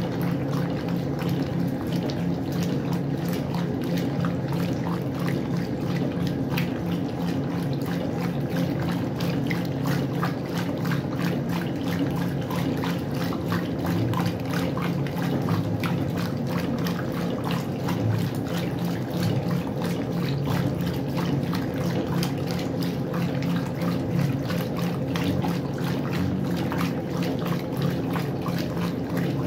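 Westinghouse washing machine running: water splashing and churning in the tub over a steady motor hum, unchanging throughout.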